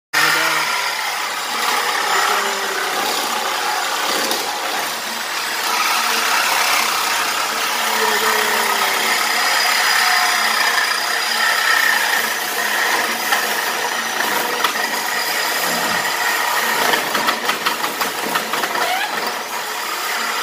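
A power tool runs steadily, cutting through the exhaust pipe to remove a BMW E36's muffler, with a rapid rattling pulse near the end.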